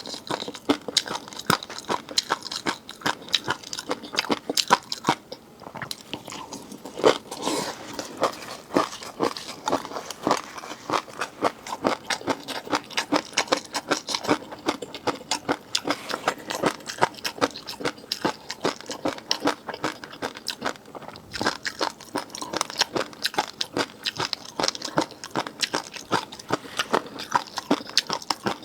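Close-miked eating of seafood: rapid crunching bites and chewing, with short breaks about five and twenty-one seconds in.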